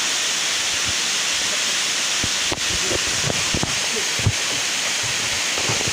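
Steady rush of a waterfall's falling water, with a few faint short knocks.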